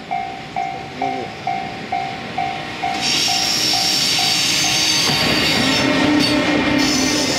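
JR Freight EF210 electric locomotive and its container wagons passing close by, with loud rail noise from about three seconds in and a steady high wheel squeal. Before the train arrives, a ding repeats about twice a second, then fades under the train noise.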